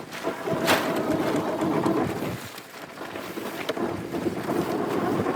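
Boat engine running, with wind and water noise and a sharp knock under a second in.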